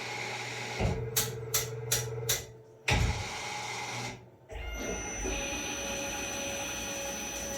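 Tormach CNC lathe running a drilling cycle. A machine hum carries a run of quick sharp clicks, then a jolt about three seconds in. After a brief drop, the lathe settles into steady running with a high thin whine.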